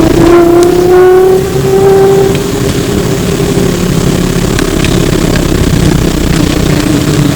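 Flyer E902 trolleybus running on the road, heard from on board: the electric traction motor whines with a rising pitch as the bus gathers speed over the first two seconds, then holds a steady tone over low road rumble.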